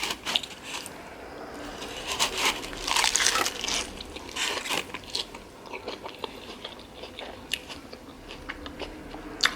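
A person biting and chewing a veggie burger with lettuce and pickles: a run of crisp crunches, thickest about two to five seconds in.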